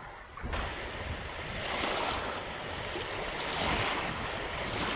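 Strong wind gusting over a lake with waves washing in, a steady rush of noise that starts abruptly about half a second in, with wind buffeting the microphone.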